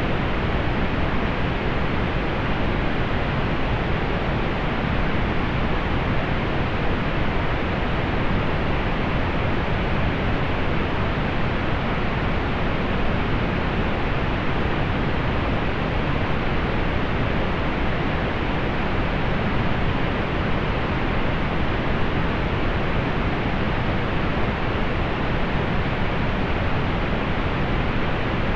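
Steady pink noise: an even, unchanging hiss weighted toward the low end, with little above the upper treble.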